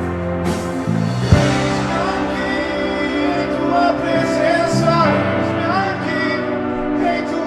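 Live worship band music with a sung melody over sustained chords and a bass line, and one percussive hit about a second in.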